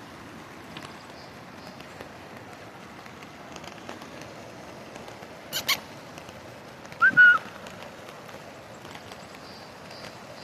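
Floodwater making a steady rushing noise, with two sharp clicks about halfway and a short, high two-note call about seven seconds in.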